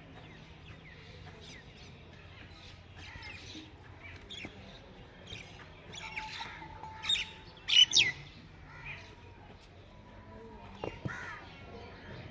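Birds chirping and calling in short, scattered bursts, with two louder sharp calls close together about eight seconds in.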